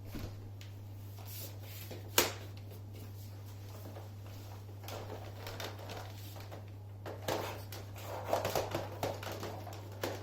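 Plastic parts of an Electrolux Precision bagless upright vacuum being handled, with the vacuum switched off: one sharp click about two seconds in, then scattered small clicks and rattles, busiest near the end, over a steady low hum.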